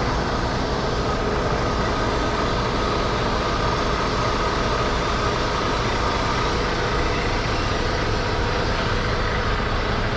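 Semi-truck diesel engine running steadily at idle, a constant drone.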